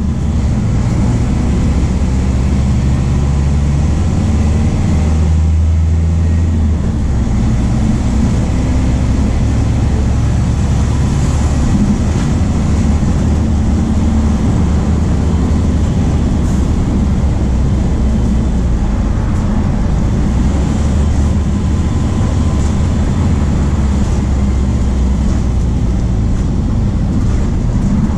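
MAN D0834 four-cylinder turbodiesel of a VW 17.230 OD bus running under way, a steady low diesel rumble whose pitch shifts a few times with engine speed.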